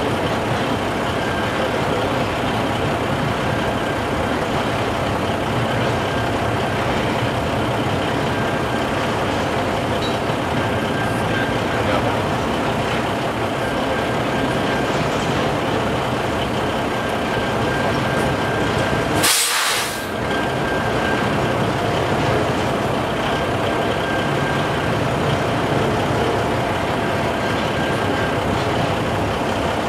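A double-stack intermodal freight train rolling steadily through a level crossing, its wheels and cars making a continuous rumble, with a semi-truck idling close by. About two-thirds of the way through, a short, sharp hiss of air cuts in.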